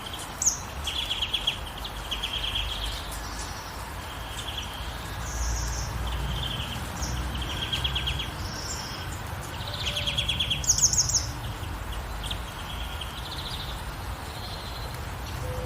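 Songbirds singing short, high trilled phrases of rapid repeated notes, several birds overlapping, over the steady hiss of gentle rain and a low rumble.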